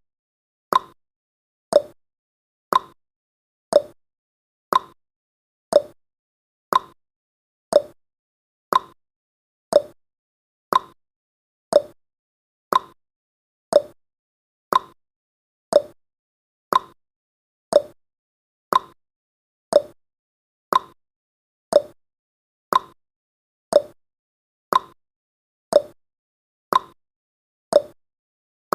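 Clock-ticking sound effect of a countdown timer: sharp ticks about once a second, alternating higher and lower like a tick-tock.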